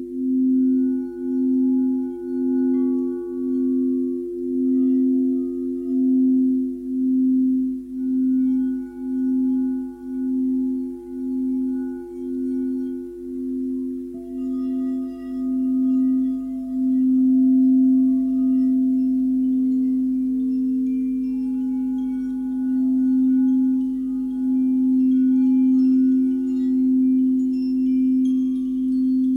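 Singing bowls sounding a sustained, pure low tone with a second tone just above it, pulsing in a slow wobble of a bit more than one beat a second that evens out about halfway through. Fainter, higher ringing tones come and go over it.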